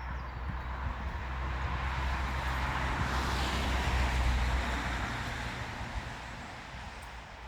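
A motor vehicle passing by: a steady low engine hum under road noise that swells, peaks about four seconds in, and then fades away.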